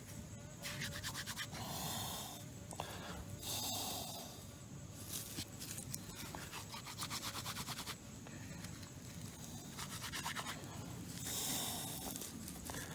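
Repeated scraping, rasping strokes of a second or so each, with short pauses between them.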